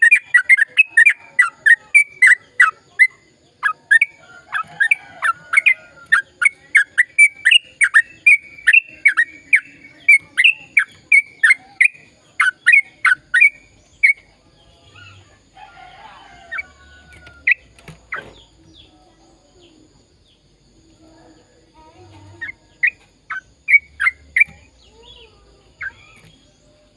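Sooty-headed bulbul singing a long, fast run of short falling whistled notes, about three a second, which stops about halfway through; after a pause come a few scattered notes and a short run again near the end.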